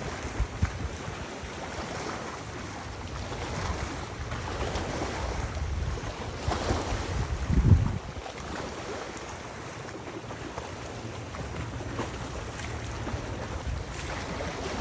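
Wind gusting over the microphone with rushing water beneath it; a strong gust buffets the microphone about eight seconds in.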